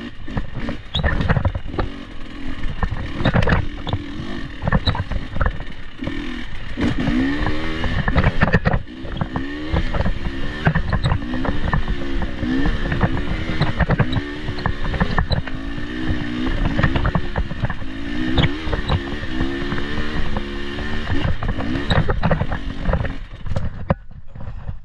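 Off-road vehicle engine running over a rough trail, its revs rising and falling about once a second, with frequent knocks and rattles from the chassis over the bumps. The engine drops away shortly before the end.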